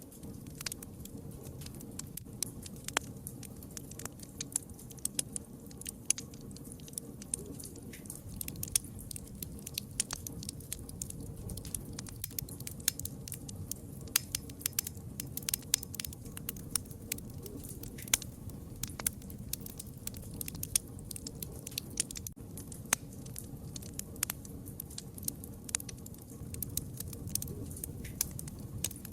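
Wood fire crackling: a constant, irregular scatter of sharp pops and snaps over a low, steady rumble.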